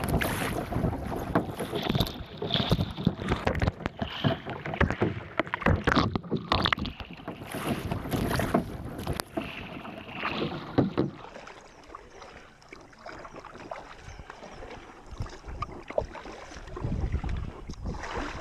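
Kayak paddle strokes splashing and dripping water, with wind buffeting the microphone; busy and irregular at first, growing quieter with only scattered splashes after about eleven seconds.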